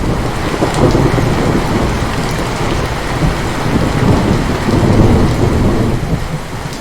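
Heavy rain with a long roll of thunder rumbling through it, swelling around the middle and easing slightly near the end.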